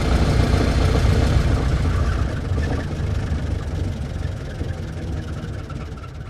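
Old car's engine running with a steady low rumble; about two seconds in it gets quieter, and it fades out toward the end.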